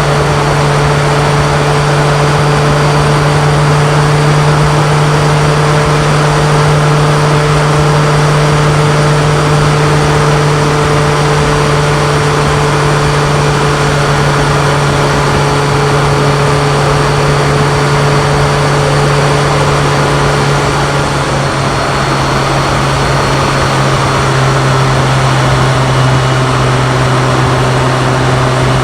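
BMW K1100LT motorcycle's inline four-cylinder engine running steadily. Its pitch drops slightly about two-thirds of the way through.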